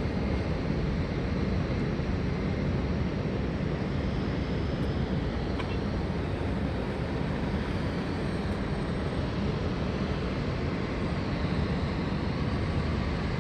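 Steady low rumble of airport background noise: distant jet aircraft and traffic heard from an open car park deck, with a few faint steady whining tones and no single event standing out.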